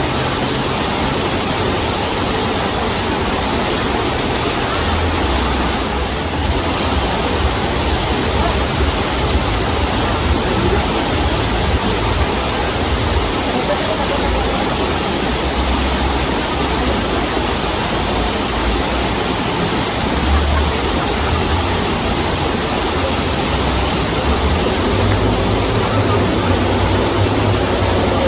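Waterfall: a steady rush of falling water with a deep, uneven rumble underneath.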